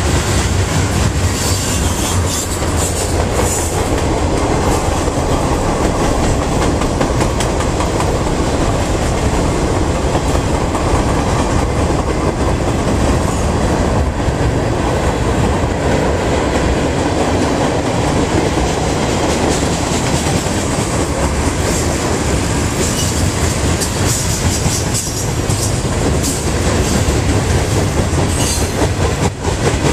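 Freight cars rolling past close by: a steady rumble with the clatter of steel wheels over the rail joints.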